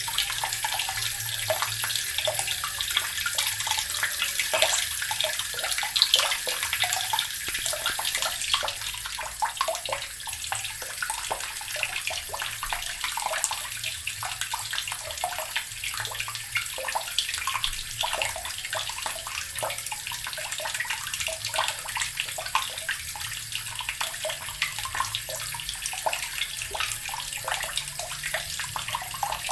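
Water running steadily from a tap, splashing and trickling into a basin below. The flow is unbroken and even, with many small splashes.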